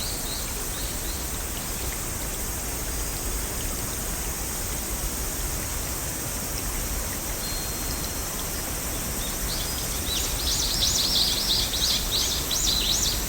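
Steady rain ambience with songbirds chirping: a few chirps at the start, then a dense run of quick, rising-and-falling chirps from about ten seconds in.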